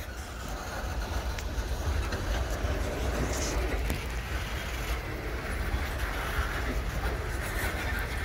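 Freight cars, boxcars and centerbeam flatcars, rolling slowly past on the track during switching. The sound is a steady low rumble with a few faint clicks of wheels over the rail.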